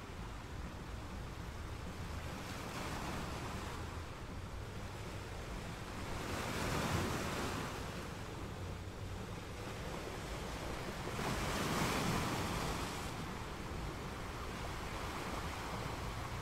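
Steady rushing water noise of a reef aquarium's circulation, swelling louder twice, a little before halfway and again about three-quarters through.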